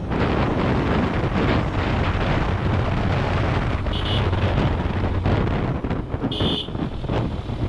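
Motorcycle running at road speed, with heavy wind buffeting on the microphone. A short horn beep about four seconds in and a longer one about two seconds later.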